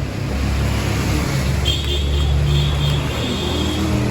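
A motor vehicle engine runs close by, a steady low rumble over street noise.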